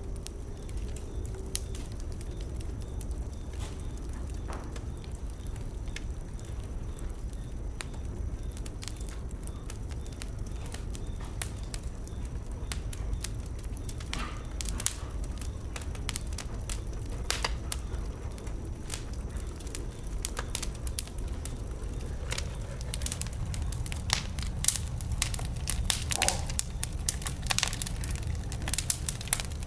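Wood bonfire crackling, with sharp pops and snaps over a steady low rumble. The pops are sparse at first and come thick and fast over the last several seconds.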